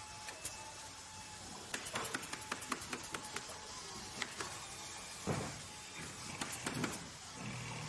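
Workshop clatter: a quick run of clicks lasting about a second and a half, then several separate knocks, over a steady background hum.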